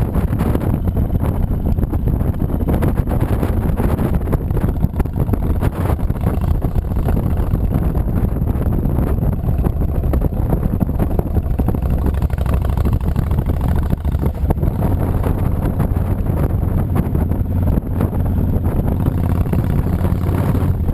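Honda VTX 1300C's V-twin engine running steadily while the motorcycle is ridden, under steady wind rushing over the camera microphone. The low engine sound swells a little about two-thirds of the way through.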